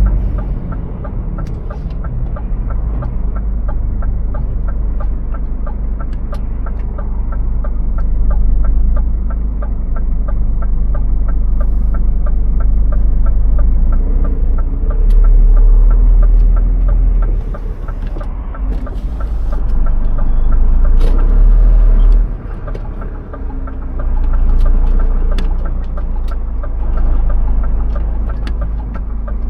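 Truck engine running while driving, a steady low rumble with a fast, even ticking, swelling and easing in loudness.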